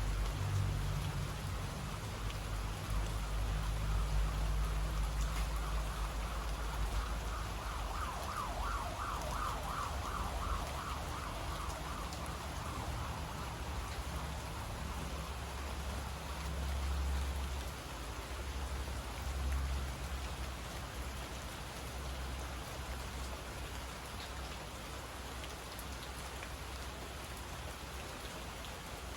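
Steady rain falling on surfaces around the microphone. A distant siren wavers quickly, rising out of the rain about six seconds in and fading by about thirteen seconds. A low rumble swells and fades underneath.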